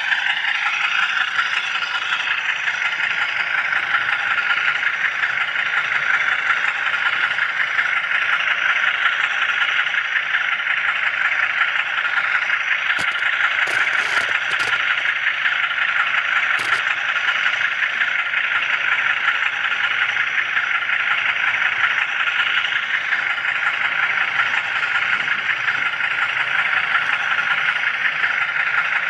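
HO scale camera car rolling along the model railroad track, its wheels and drive making a steady rattling whir on the rails, with a few sharp clicks about halfway through.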